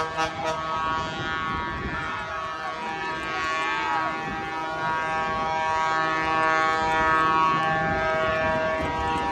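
Several truck air horns blowing together in long, held blasts, their tones overlapping into one continuous chord, over street noise.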